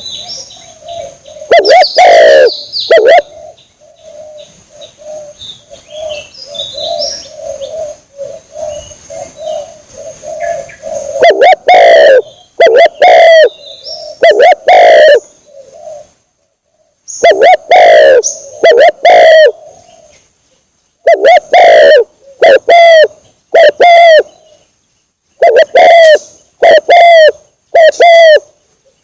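Spotted dove (tekukur) cooing over and over in short, very loud runs, a bird-hunting lure call. A softer, continuous cooing runs underneath through the first ten seconds or so, with a few faint high chirps around a quarter of the way in.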